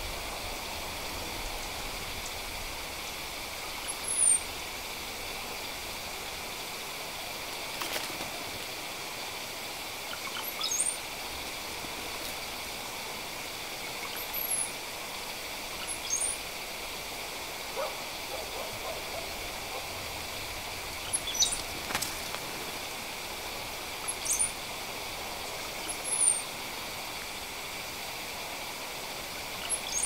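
Birds giving short, very high, thin downward-slurred whistles, about ten of them a couple of seconds apart, over a steady hiss.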